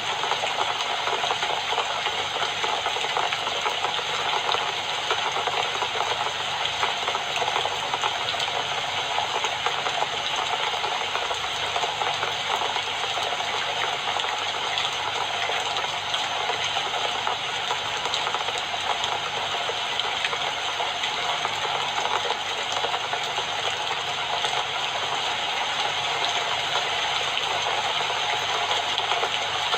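Steady rain falling, a dense even patter with no let-up.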